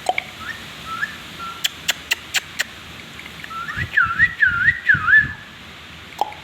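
Pet parrot whistling: a few short rising whistles, then a run of about five quick warbling whistles that swoop down and back up, with a handful of sharp clicks in between.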